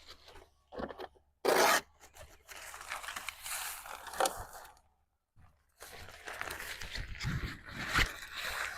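Velcro tab ripping apart about a second and a half in, then fabric rustling and crinkling as the window screen cover is pulled down and handled, with a sharp knock near the end.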